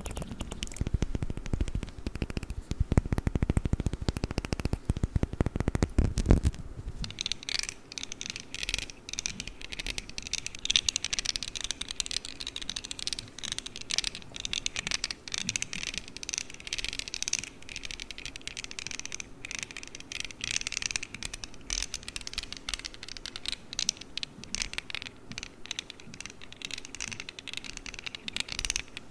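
Fast tapping and scratching on a perfume bottle: dense clicking with heavier, thuddy taps for about the first six seconds, then quick, crisp crackling clicks.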